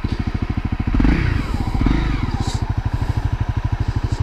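Honda CRF250L's single-cylinder four-stroke engine idling with an even, fast beat, blipped twice by the throttle about one and two seconds in, each rev rising and falling back to idle.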